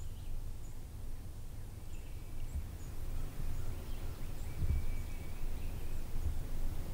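Outdoor ambience: a steady low rumble with a few faint, scattered bird chirps and short whistled notes.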